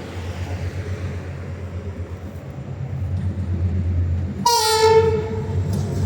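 Diesel locomotive engine running with a steady low drone that grows louder as it nears. About four and a half seconds in, its horn sounds one blast of a little over a second, its pitch dipping slightly at the start.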